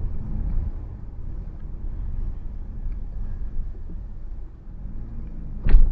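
Low, steady road and engine rumble inside a car cabin as the car slowly turns in, with a single sharp thump near the end.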